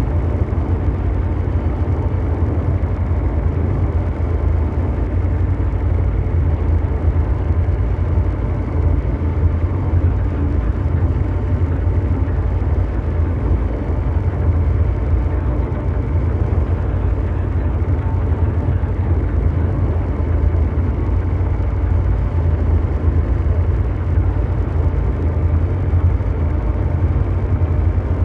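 Ambient mechanical drone noise: a steady, deep, brown-noise rumble with a faint steady hum riding above it, like a huge engine running without change.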